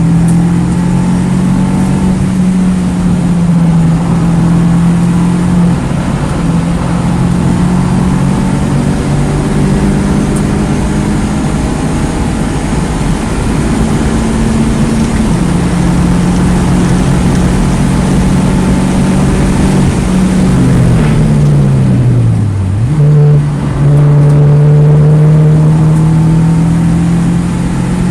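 2009 Mini Cooper S's turbocharged 1.6-litre four-cylinder engine driven hard at high, near-steady revs, with a few brief dips as gears change, over steady road and wind noise. About three quarters of the way through, the revs fall steadily for a few seconds, then climb again.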